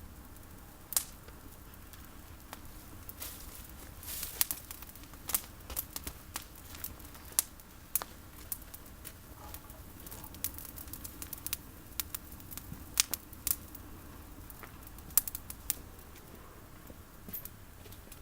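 Campfire of olive branches crackling, with irregular sharp pops and snaps.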